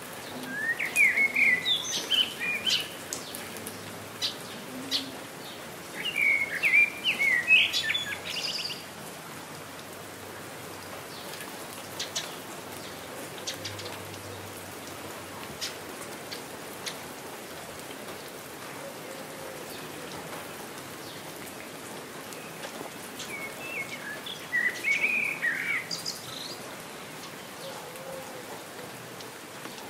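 Steady rain falling, with scattered drips, and a songbird singing three bursts of quick chirping phrases: about a second in, at six seconds, and again near the end.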